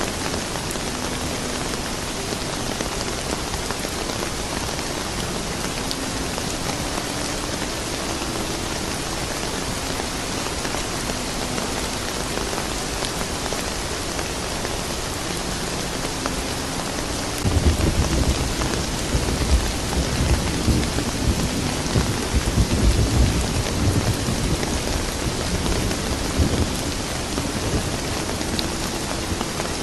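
Steady rain falling, an even hiss, with a long low rumble of thunder that starts a little past halfway and rolls on for about ten seconds.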